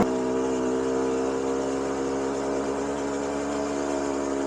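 Small 50cc two-stroke moped engine idling at a steady, unchanging speed.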